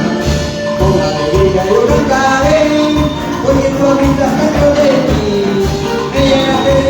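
Live praise music from a church band: a voice singing a melody over the band with a steady low drum beat.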